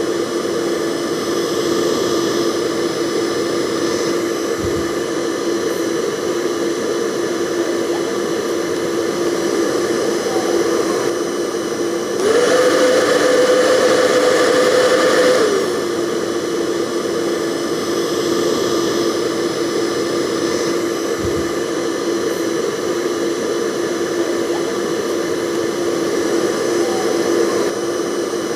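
Hair dryer blowing steadily, a rushing airflow over a humming motor. About twelve seconds in, the hum steps up in pitch and the sound gets louder for about three seconds, then settles back to the lower pitch.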